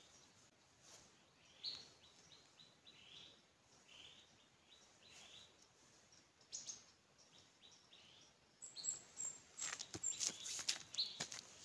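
Small birds giving repeated short, high chirps. From about three-quarters in, a run of scuffs and rustles on dry ground takes over and is louder, as a small animal carcass is handled and set down.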